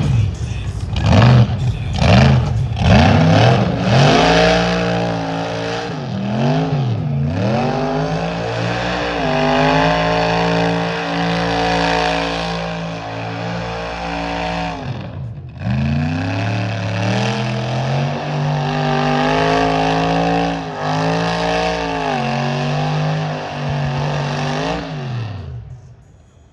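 Large car engine revved hard. It gives quick blips at first, then climbs and holds at high revs for several seconds at a time, dropping sharply once about fifteen seconds in before climbing again, and falls away near the end.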